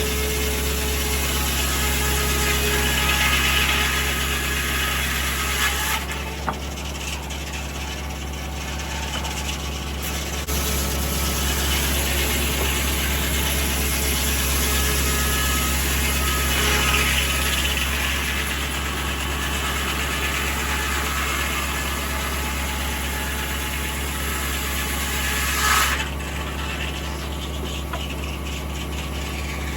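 Tractor engine running steadily to power a 1950 Corley circular sawmill, with the saw's higher sound swelling and thinning over the engine drone. The higher sound drops away about six seconds in and again near the end.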